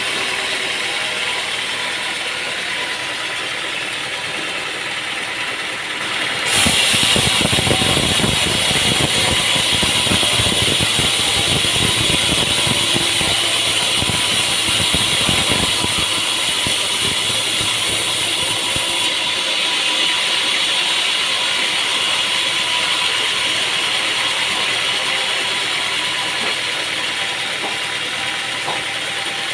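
Sawmill machinery running steadily with a mechanical rattle. About a quarter of the way in it gets louder, with a dense rapid rattling for roughly ten seconds before it settles back to a steady run.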